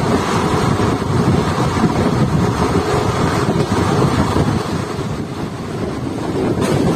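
Indian Railways ICF passenger coach running at speed, a steady rumble of wheels on the track, with wind buffeting the microphone.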